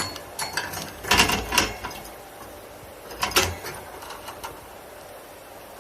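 Budgerigar chattering with quick clicking and scratchy warbling notes in a few short bursts, the busiest in the first two seconds and one more a little past the middle.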